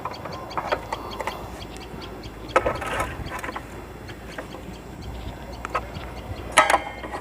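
Sharp metallic clinks and taps of hand tools and nuts against a motorcycle's chain cover while it is being fitted, each with a brief ring. A cluster comes about two and a half seconds in and the loudest near the end, over a low steady hum.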